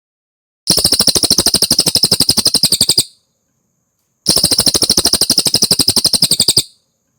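Cililin singing two fast trills, each a rapid run of about fifteen high notes a second lasting over two seconds, with a short pause between them.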